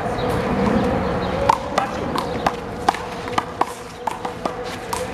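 Big blue rubber handball being slapped by hand and smacking off the wall and court in a one-wall doubles handball rally: a quick, irregular run of sharp slaps and bounces starting about a second and a half in.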